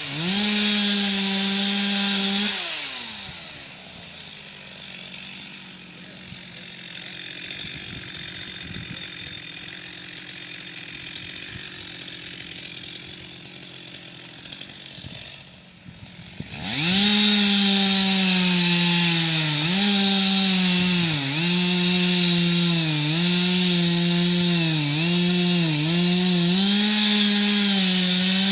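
Two-stroke chainsaw running at full throttle, then dropping to a quieter idle for about fourteen seconds. Near the middle it revs back up to high speed, and the pitch sags briefly several times as the chain bites into wood.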